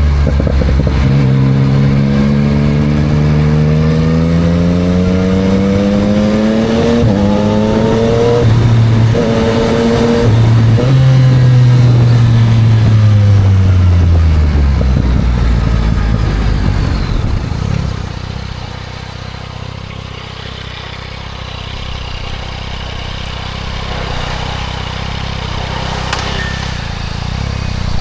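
2024 Yamaha MT-09 SP's 890 cc inline-three through a Spark full exhaust, accelerating with the pitch climbing and short breaks at the gear changes, then dropping away as the bike slows. It settles into a quieter, steady low running for the last several seconds before starting to pick up again at the very end.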